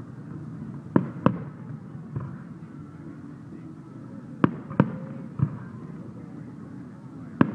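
Aerial fireworks bursting: about half a dozen sharp bangs, some in quick pairs, over a steady background hum.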